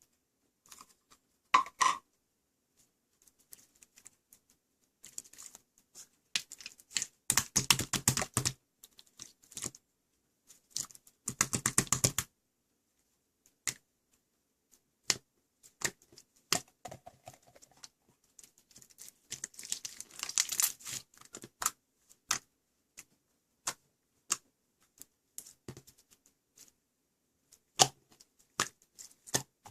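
Irregular sharp clicks and taps, with two short runs of rapid clicking near the middle.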